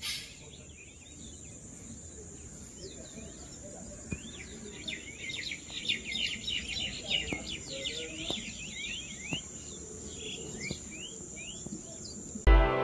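Countryside ambience: insects trilling steadily on one high note, with many birds chirping quickly, busiest in the middle stretch. Music comes in just before the end.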